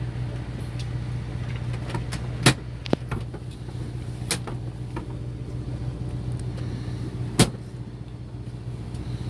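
A fishing boat's engine running steadily with a low hum, with a few sharp knocks on deck, the loudest about two and a half seconds in and another near the end.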